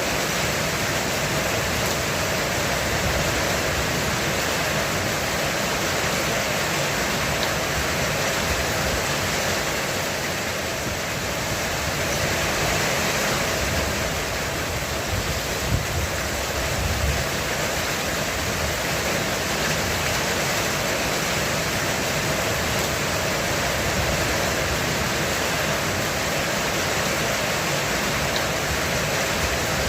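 Heavy rain pouring steadily on a roof, a dense even hiss, with a brief low rumble of thunder about halfway through.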